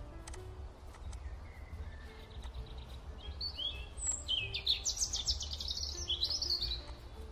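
A bird singing a quick run of chirps through the middle, over faint background music and a steady low hum.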